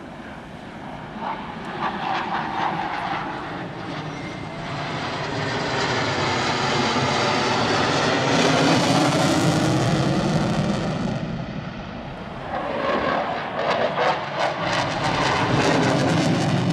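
F/A-18 Hornet's twin jet engines in a fast pass, the noise swelling to its loudest about eight to ten seconds in and dipping. It then builds again with a ragged crackle near the end.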